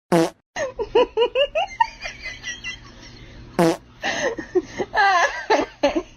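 A person laughing in quick repeated bursts, set off by two short, loud sounds that fall in pitch: one at the start and one about three and a half seconds in.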